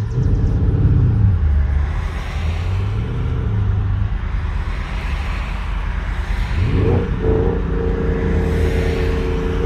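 Car engine running, its pitch wavering low for several seconds, then rising sharply about seven seconds in and held at higher revs.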